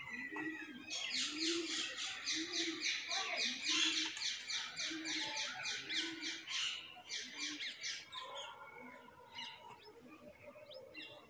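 Birds calling: a rapid run of high chirps, about four a second, lasting some six seconds before thinning out to scattered chirps, with a lower call repeating beneath roughly once a second.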